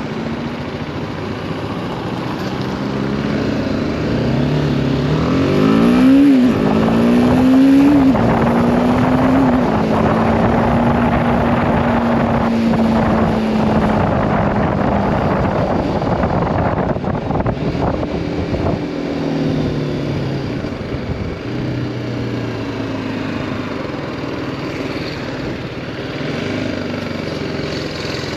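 BMW G310R's single-cylinder engine accelerating through the gears, its note climbing and dropping at two quick upshifts several seconds in, then holding a steady cruise before easing off and slowing. Wind and road noise run underneath.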